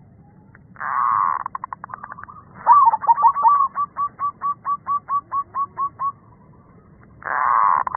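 Zebra dove (perkutut) cooing: a run of about fifteen quick, evenly spaced coo notes, about four a second, each a short rise and fall in pitch. A short harsh rasping burst followed by rapid clicks comes about a second in and again near the end.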